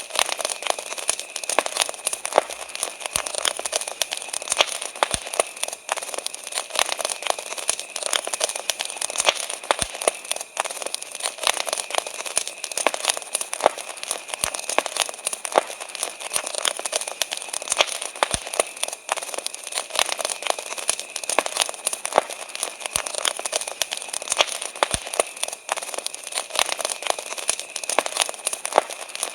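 Wood campfire crackling with many small sharp snaps and pops, over a steady high chirring of crickets.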